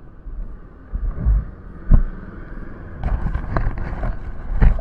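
Motorcycle engine running with a low rumble of road noise, broken by a few sudden dull thumps, the loudest about two seconds in and near the end.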